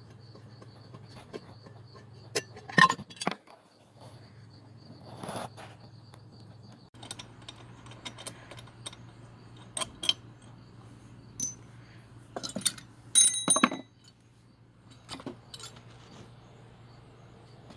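Hand tools and small metal parts clinking and knocking during work on a lawn tractor engine: scattered light clicks and clinks, with louder metallic hits about three seconds in and again about thirteen seconds in, the second leaving a brief ring.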